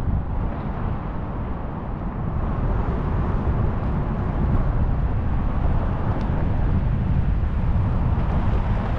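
Steady low rumble of road traffic on a city street, growing a little louder about two seconds in.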